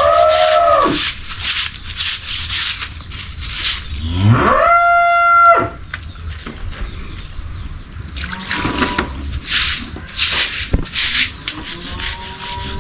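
A cow mooing twice, each call rising and then held for about a second. In between and around the calls, rhythmic scraping or brushing strokes repeat at about three a second.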